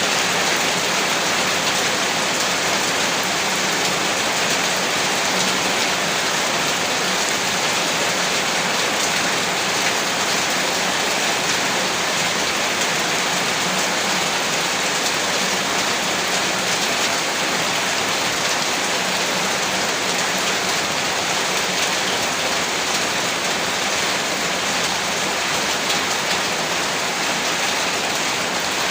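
Steady rain falling, a dense, even patter of many drops with no pauses or thunder.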